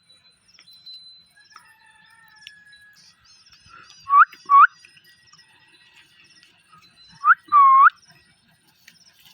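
Parrot calling: two pairs of loud, short calls that hook up and down in pitch, the first pair about four seconds in and the second about seven seconds in, the last call a little longer. Faint high chirping and thin whistles sit underneath.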